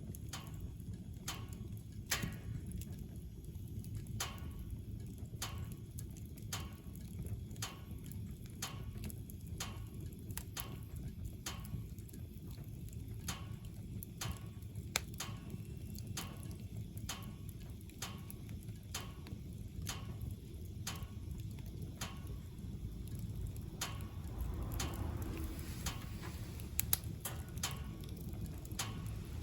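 Wood-burning stove fire with a low, steady rumble and sharp crackling clicks about twice a second.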